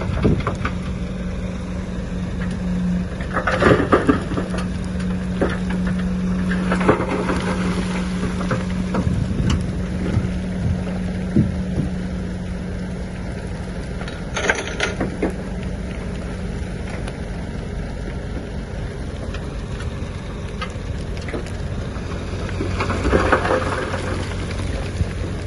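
Komatsu D53P bulldozer's diesel engine running steadily under load while soil and stone crunch and clatter in front of the blade, with louder crunches a few times.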